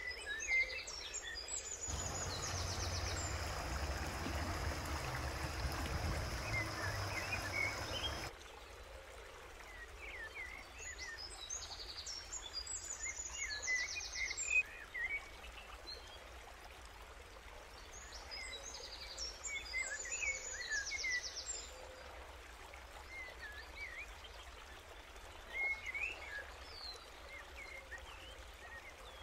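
Birds chirping, with a fast falling trill repeated several times between scattered short calls. A steady rush of noise starts abruptly about two seconds in and cuts off about six seconds later.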